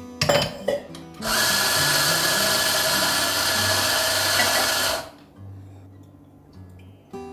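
A small high-speed electric motor whirs steadily for about four seconds, starting and stopping abruptly, over soft guitar music.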